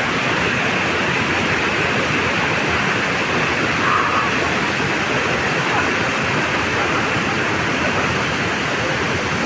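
Waterfall crashing steadily, a loud, even rush of falling water.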